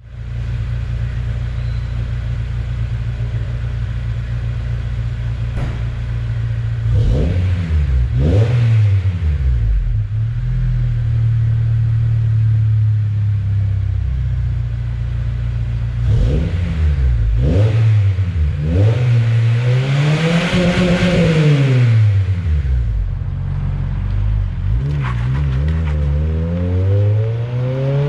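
Acura RSX Type-S's 2.0 L four-cylinder exhaust through an HKS Hi Power cat-back system, idling steadily and being revved: a few quick blips, one longer rev that rises and falls about two-thirds of the way in, and another rev climbing near the end.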